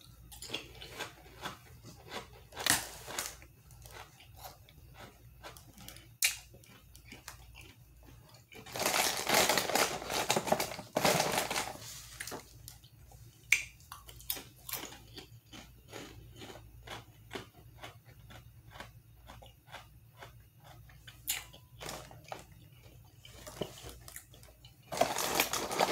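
Chewing and crunching of thin, crisp Ritz Cheese Crispers crackers, as many short, irregular crackles, with a louder rustle lasting a few seconds about a third of the way in.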